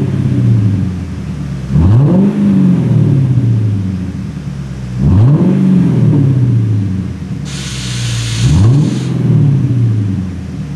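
Lexus LS600h's 5.0-litre V8 revved four times in quick throttle blips, each rising sharply and sinking back slowly to idle, through an aftermarket rear-section muffler with an expansion chamber fitted for a louder exhaust note. A brief hiss sounds a little past the middle.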